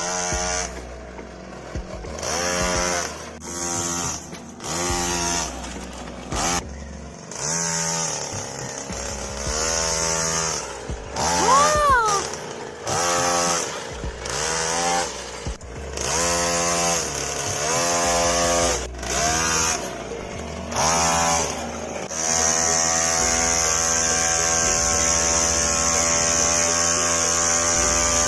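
Small engine of a homemade mini tractor running and revving up and down in short spells with abrupt breaks, then running steadily under load for the last several seconds.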